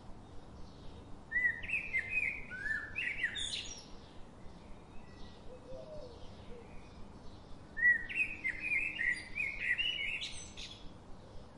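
Songbird singing: two long phrases of rapid, varied chirping notes, one starting about a second in and one about eight seconds in.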